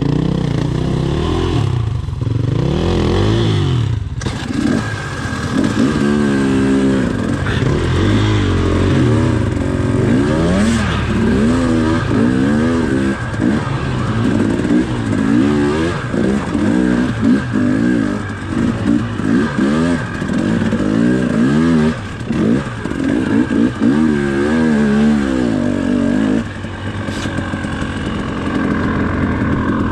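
Dirt bike engine revving up and down over and over as the throttle is worked, its pitch rising and falling every second or two.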